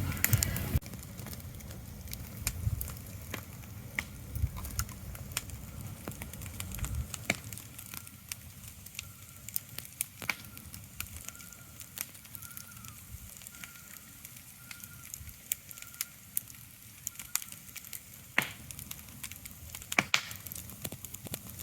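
Irregular crackling with sharp pops over a steady soft hiss, like a crackling fire, with a low rumble that fades out about seven seconds in. A faint, softly repeated high chirp sounds in the middle.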